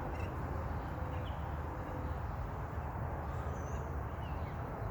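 A few faint, short high bird chirps scattered over a steady low rumble of outdoor background noise.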